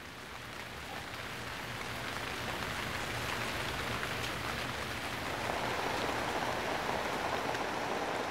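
Rain falling steadily on dense forest foliage, fading up over the first couple of seconds.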